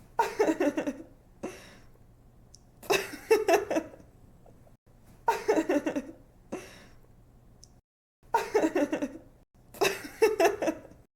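A young woman laughing in repeated bursts of quick 'ha-ha-ha' pulses. There are five bursts about two to three seconds apart, with a short breath between some of them.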